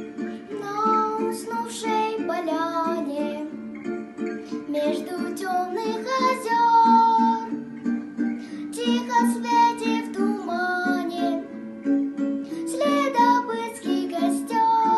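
A child singing a song over plucked-string accompaniment, guitar- or ukulele-like, with a steady chordal rhythm.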